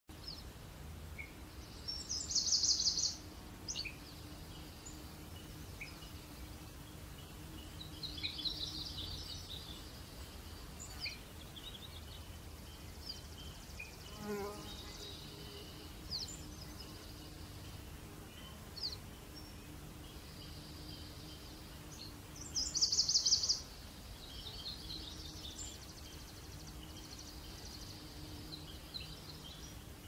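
Forest ambience: small birds singing short, fast, high trills, loudest about two seconds in and again about 23 seconds in, with softer chirps and single chips between, over a low steady background hum.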